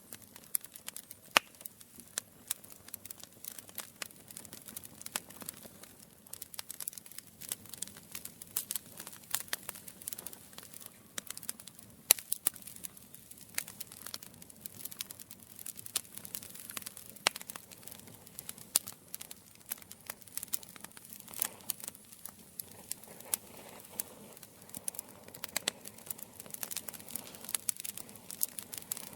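Wood fire crackling: a steady stream of irregular sharp pops and snaps over a soft hiss, with a few louder pops.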